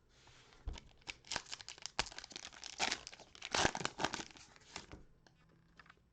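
Trading card pack wrapper being torn open and crinkled: a dense run of crackles and rustling that stops about five seconds in.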